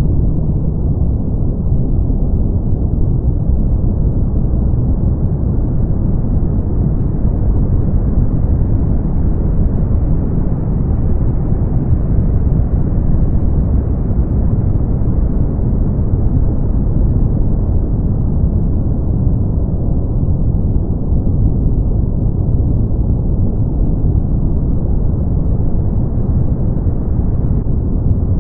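Brown noise: a steady deep rumbling hiss with the high end rolled off, unchanging apart from a slight drift in brightness.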